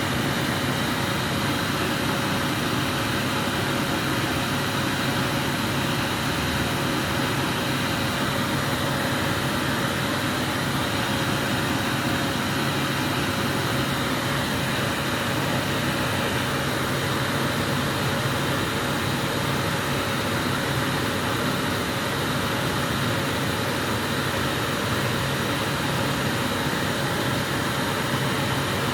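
Glassblower's bench burner flame running with a steady rushing hiss, a faint steady hum beneath it.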